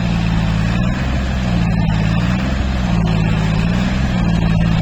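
Tractor engine running steadily under load, its pitch rising and falling gently.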